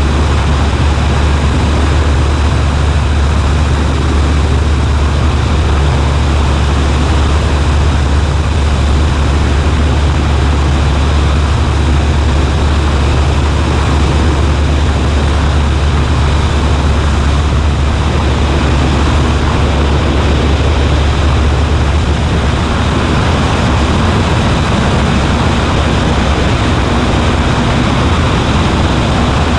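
Cessna 140A's engine and propeller running at a steady drone, heard from inside the light aircraft's cabin.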